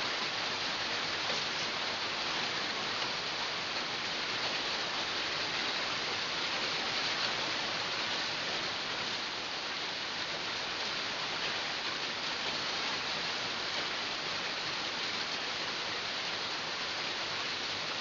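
Heavy rain falling steadily, an even hiss of many drops on surfaces.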